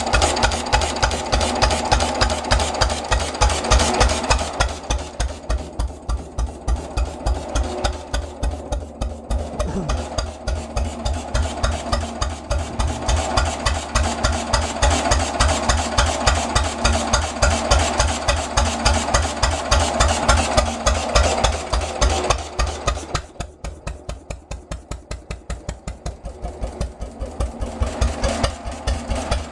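1928 Conord BR4 4 hp stationary engine running with a steady, even beat. The sound dips in level for a few seconds about three-quarters of the way through, then comes back up.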